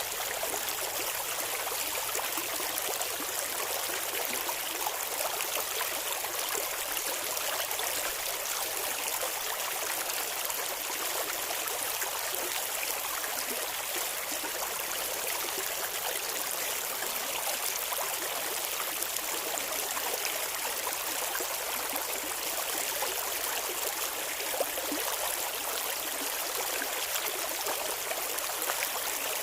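Shallow clear river flowing steadily, with the trickling and babbling of water over stones.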